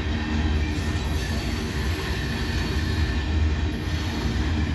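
Freight train cars rolling past at close range: a steady rumble of steel wheels on the rails. A high hiss comes in about half a second in and stops just before the four-second mark.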